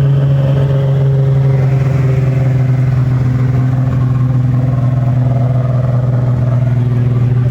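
A car's engine and exhaust running loud at steady revs, one unchanging droning note.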